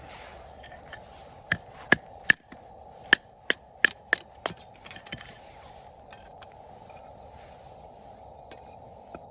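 Firewood being worked by hand: a run of about nine sharp wooden cracks in quick, uneven succession, then a few fainter knocks.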